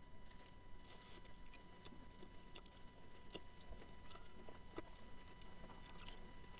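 Faint chewing of smoked pork: scattered soft, wet mouth clicks.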